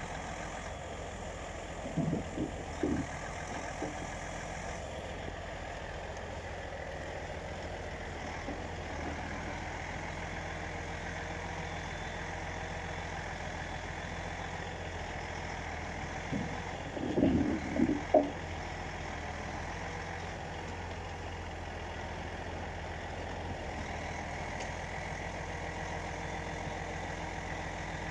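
Heavy truck's diesel engine running steadily at idle, with a few short clunks and knocks about two seconds in and a louder cluster around seventeen seconds in.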